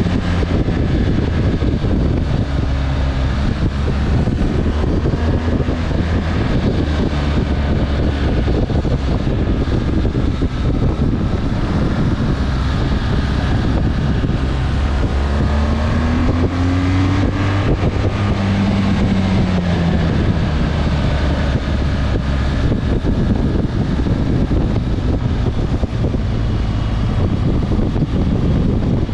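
Motorcycle engine running on the move, with wind buffeting the microphone. About halfway through the engine note rises briefly, then falls again a few seconds later.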